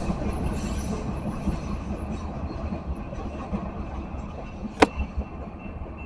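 Freight train of covered hopper cars rumbling past on the rails, slowly fading. There is one sharp clank about five seconds in, and faint thin high tones near the end.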